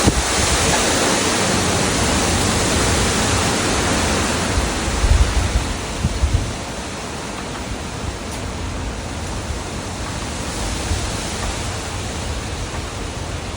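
Strong wind rushing, with low gusts buffeting the microphone about five and six seconds in; it eases a little after that.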